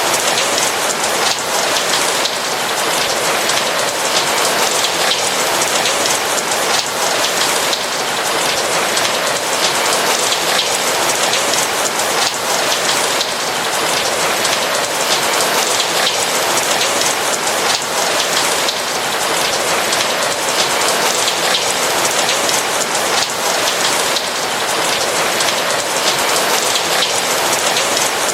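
Steady rain with a dense hiss of raindrops, many small drop ticks standing out, and no thunder.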